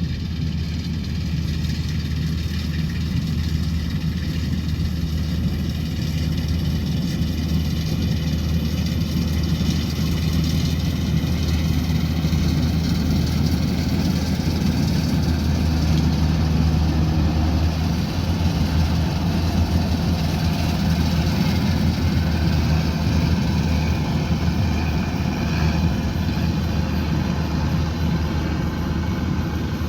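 Rice combine harvester's engine running steadily and loud, with a faint mechanical whine that slowly rises in pitch over the first half.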